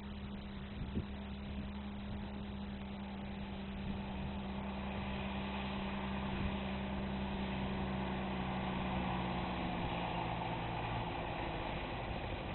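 Fiat 65-46 DT tractor's diesel engine running steadily as the tractor approaches, growing louder over several seconds; its steady engine note fades out near the end.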